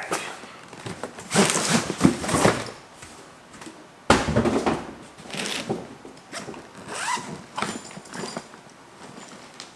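Zipper of a tool bag being pulled open in several rasping strokes, with rustling of the bag and a sharp knock about four seconds in.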